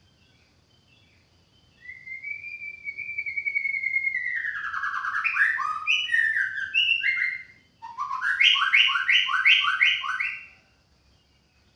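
White-rumped shama singing: a long whistled note sliding slowly downward breaks into a run of quick stepped notes. After a short pause comes a fast series of about eight repeated whistled notes, roughly three a second.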